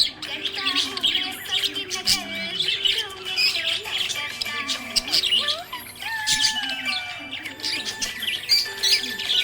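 Budgerigars chirping and warbling: a continuous, dense chatter of quick chirps and clicks mixed with short whistled notes that slide up and down.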